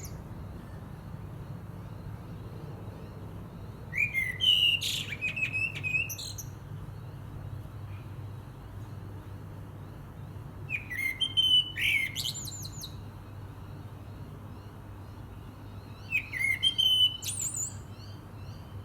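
A songbird singing three phrases about six seconds apart, each a couple of seconds of quick, high, varied notes, over a steady low hum.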